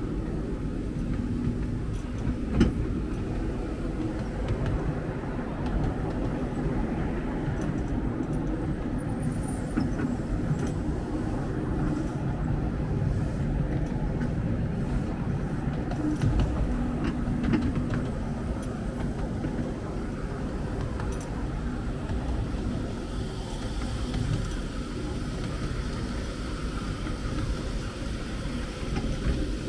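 Miniature railway train running along the track: a steady rumble with a few sharp clicks, the loudest about two and a half seconds in.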